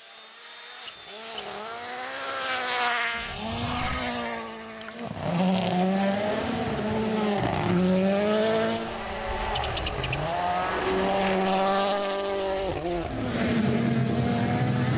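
Rally car engine revving hard through gear changes. The pitch climbs and then drops back several times, and it settles to a steadier note near the end.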